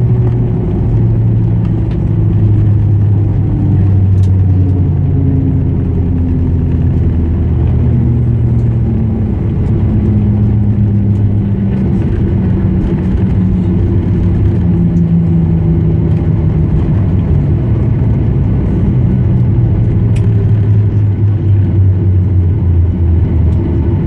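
Cabin noise of a Boeing 737-800 taxiing after landing: a steady low rumble from its CFM56 engines at idle and the rolling gear, with low hums that slowly drift up and down in pitch.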